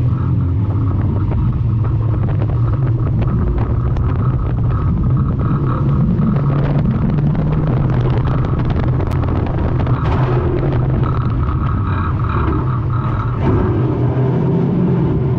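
Morris 1100 banger racing car's four-cylinder engine running hard, heard from inside the stripped cabin, with scattered rattles and knocks from the bodywork.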